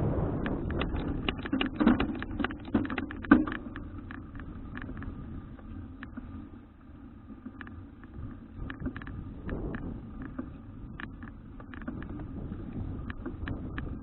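Riding noise from a folding city bike: a steady low rumble of wind on the microphone and the tyres on the road, with a run of clicks and rattles from the bike in the first few seconds and one sharp knock about three seconds in; after that the rattling thins to scattered ticks.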